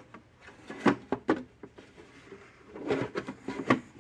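Knocks and clatter of the fence charger's case parts being handled and fitted together on a workbench. The sounds come in two short clusters, about a second in and about three seconds in.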